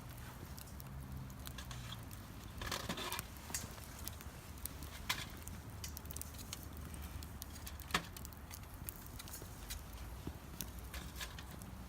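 Birch-wood campfire crackling, with scattered sharp pops and a short rustling burst about three seconds in.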